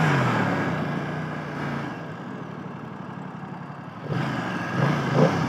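BMW F900R parallel-twin motorcycle engine, its revs falling away at the start and settling to a low steady run under wind noise. About four seconds in the engine picks up again, with a short rise in pitch near the end.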